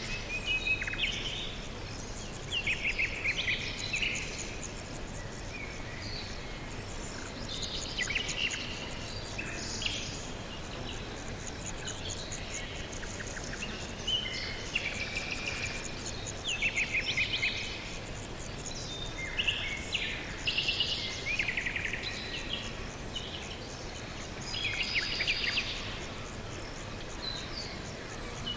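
Songbirds singing in short phrases of quick chirps and trills, recurring every few seconds over a steady background hiss.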